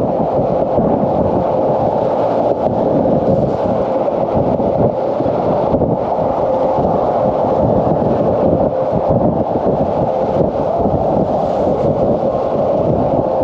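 Loud, steady wind buffeting an action camera's microphone while riding a bike, a low rumbling rush with constant flutter.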